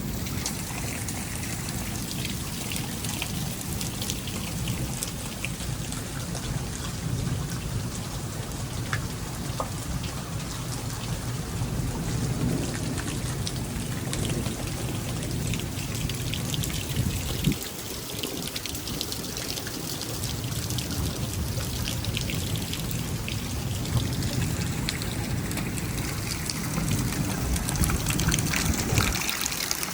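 Monsoon rain falling steadily, with many sharp drop hits over a continuous low rumble.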